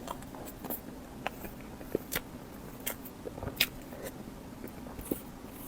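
Close-miked eating sounds: irregular bites and wet mouth clicks while chewing, the sharpest click a little past halfway.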